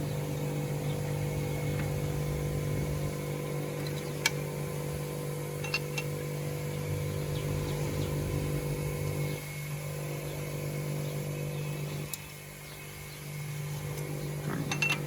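Toyota Corolla GLI engine running steadily at idle, with a few light clicks and taps over it. The car is in for an engine noise problem.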